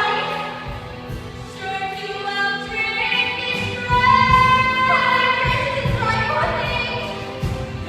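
Musical-theatre singing: voices holding long, wavering notes over instrumental accompaniment.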